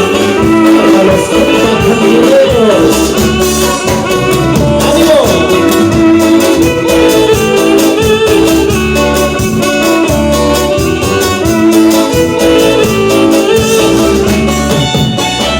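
A Latin American band playing dance music with singing and a steady beat.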